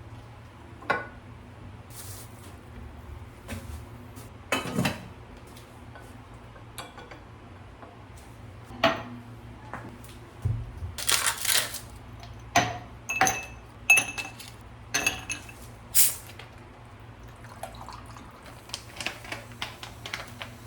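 Irregular clinks, taps and knocks of hard household objects being handled and set down, some with a short ringing like ceramic or glass. They are sparse at first and come thick and fast about halfway through, over a steady low hum.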